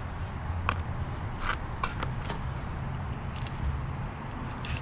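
Aerosol spray-paint can giving several short hissing bursts over a low steady background rumble.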